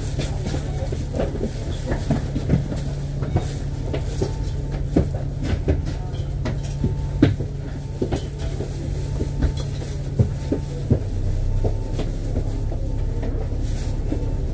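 Inside the cabin of an Alexander Dennis Enviro500 MMC double-decker bus on the move: a steady engine drone under frequent rattles and clicks from the bodywork and fittings. About eleven seconds in, the engine note drops lower.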